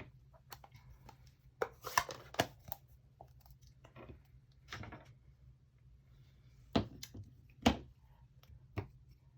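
Sponge dauber dabbing ink onto a paper die-cut and the ink pad: a handful of soft, irregular taps with light paper rustling between them.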